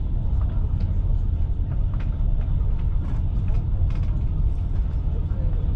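Moving passenger train heard from inside the coach: a steady low running rumble with a few faint, scattered clicks and rattles.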